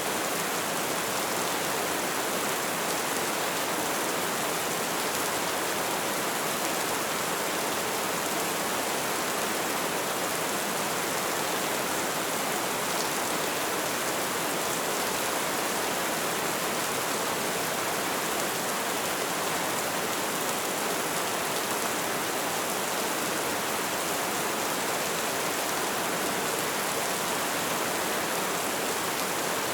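Light rain falling steadily, a dense even patter of drops.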